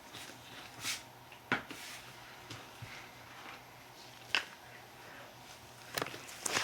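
A few separate clicks and knocks with a brief rustle, from objects being handled and set down, such as the solvent container and bucket being readied.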